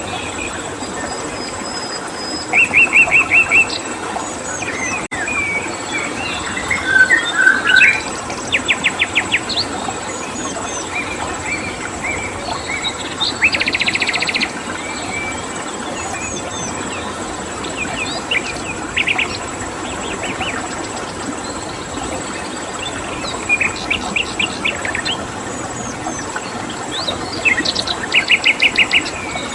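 Wild songbirds calling in short, fast trills and chirps every few seconds over the steady rush of a stream, with a constant high thin buzz like a cricket.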